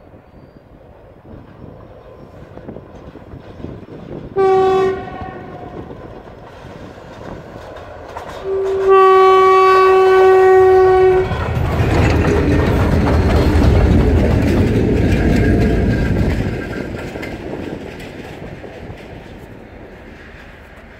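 A diesel locomotive air horn sounds one short blast, then a long one about four seconds later. Then a snowplough train, two diesel locomotives pushing a plough car, passes close by. The engines and wheels rumble loudest for a few seconds, then fade away.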